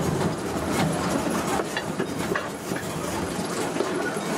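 Narrow-gauge steam train running: a steady rolling rumble with wheels clicking over the rail joints, heard from just behind the small steam locomotive's cab.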